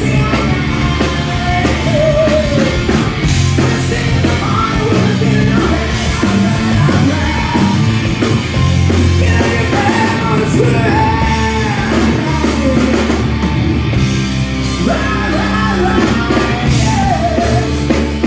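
Live rock band playing loudly, a singer belting vocals over the band's guitar, bass and drums.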